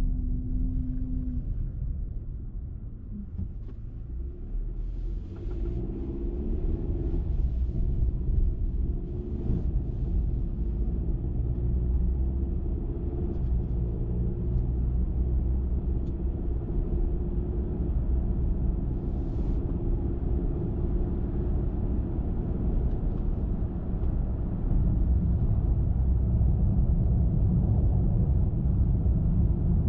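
Car driving along a road: a steady low rumble of engine and tyres on the road surface, with the engine note rising about six seconds in and a few brief hissing swells. It grows louder from about 24 seconds in.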